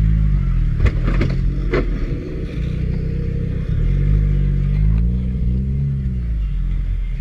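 Car engine running and revving up and back down in several swells, with a few sharp knocks about a second in.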